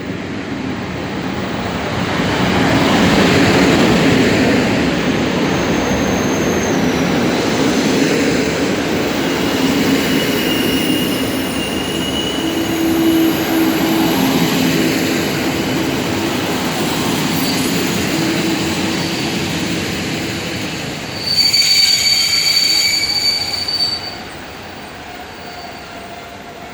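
Intercity passenger train arriving at a station platform, its wheels and carriages rumbling past as it slows. Thin squeals come and go through the middle, and a louder high-pitched brake and wheel squeal lasts a few seconds near the end before the noise drops away.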